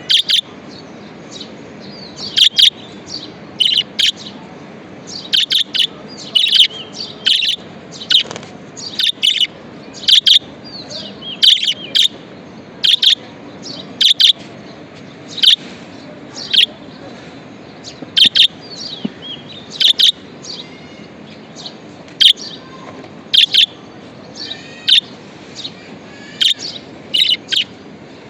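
Budgerigars chirping: short, sharp chirps in quick clusters, about one cluster a second, over a faint steady hiss.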